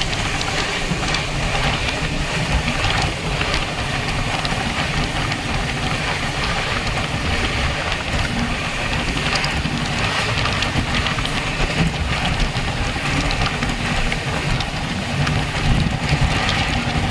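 Train in motion: a steady low rumble and rushing noise, with scattered clicks and rattles.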